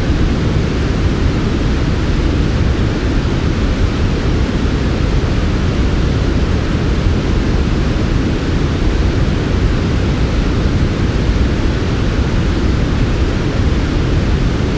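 Steady, smooth white noise for sleep, unchanging, with most of its weight at the low end, so it sounds deep and soft with little hiss.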